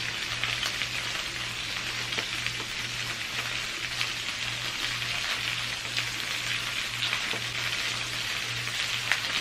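Food frying in a skillet: a steady sizzle with scattered small crackles and pops, over a low steady hum.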